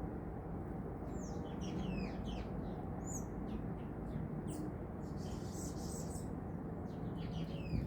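Small songbirds giving short, quick chirps and calls: a flurry in the first few seconds and a few more near the end, over a steady low background rumble.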